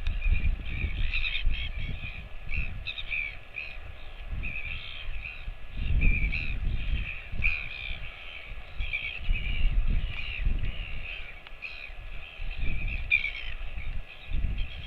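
Crows cawing again and again, many short calls following and overlapping one another, over an irregular low rumbling.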